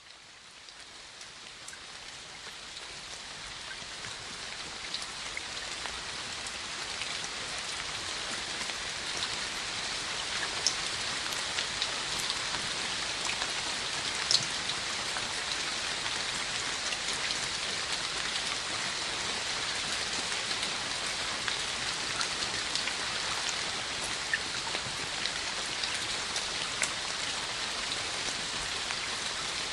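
Steady rain falling on a hard surface, fading in over the first several seconds, with now and then a single louder drop ticking out above the hiss.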